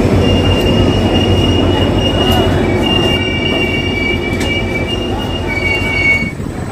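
Arriving passenger train's coaches rumbling past, with steady high-pitched wheel squeal, two or three overlapping squeals held for a second or more at a time. The sound drops off abruptly near the end.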